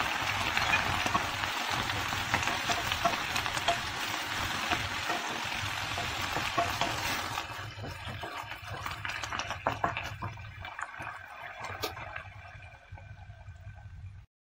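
Romaine lettuce leaves sizzling in a nonstick frying pan, a dense sizzle as fish sauce is poured in. About halfway through the sizzle drops down, and a wooden spatula stirring the leaves adds sharp clicks and scrapes.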